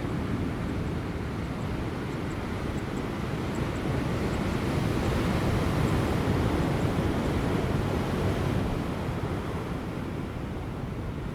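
Large ocean waves breaking on rocks as a continuous surf wash, swelling about halfway through and easing near the end, with light wind.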